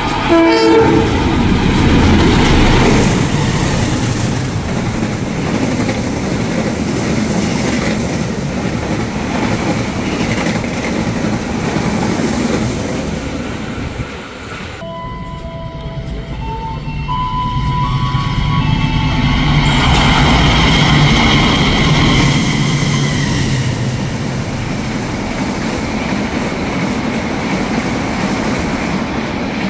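Diesel locomotive hauling a passenger train through the station at speed: a short horn blast right at the start, then the engine and the wheels clattering over the rail joints. Partway through, another long train comes through, with a few short steady tones followed by a rising rumble and clatter of wheels.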